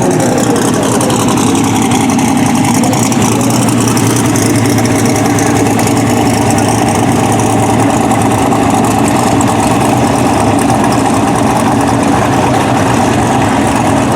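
Drag race car engines idling, a loud, steady, even rumble with no revving.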